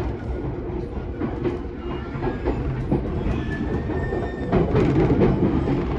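Cab-interior running sound of a JR E217 series electric train rolling over multiple tracks: a steady low rumble with irregular wheel clacks over rail joints and points, and a faint wheel squeal a little past the middle. The clacking grows louder about four and a half seconds in.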